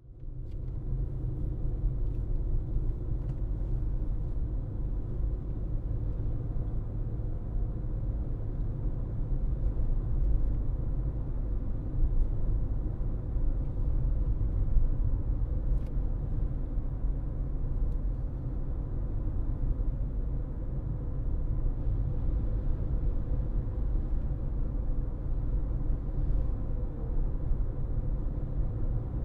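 Steady low rumble of a car driving: road and engine noise, with no marked changes and a few faint ticks.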